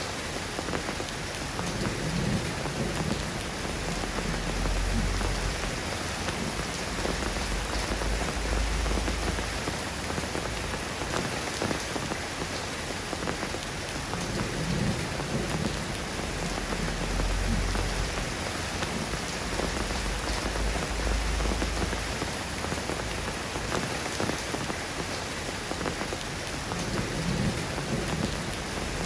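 Steady, dense rain falling, an even patter with no break. Low thunder rumbles swell up under it several times, each lasting a few seconds.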